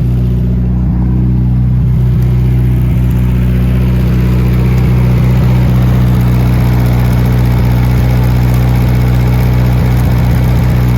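The 1969 Adams Probe 16's engine running steadily after its first start in over 40 years dormant, growing a little louder about two seconds in.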